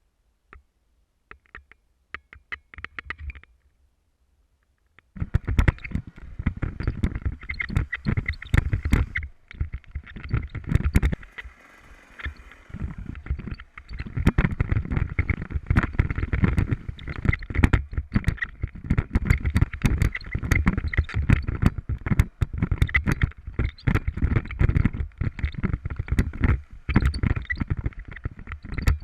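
Rough, loud rumbling with rapid knocks and jolts, starting about five seconds in after a few faint clicks, typical of wind and bumps on a camera riding a motorcycle over a rough track.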